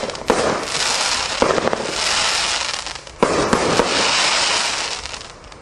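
Display fireworks firing: three sharp bangs, just after the start, about a second and a half in, and just past three seconds, each followed by a long crackling hiss that fades over a second or two.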